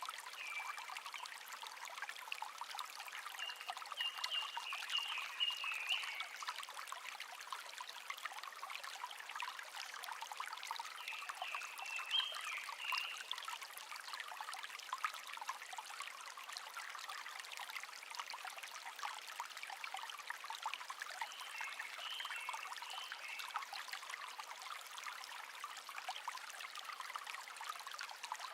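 A small stream trickling and babbling steadily, with a songbird singing short, high, warbling phrases several times over it.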